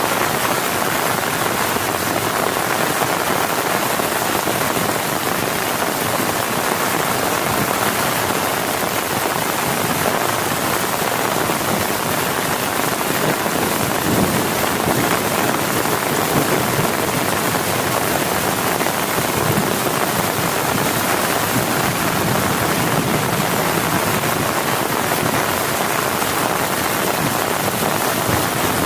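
Heavy rain falling steadily, a dense even patter of drops on a surface.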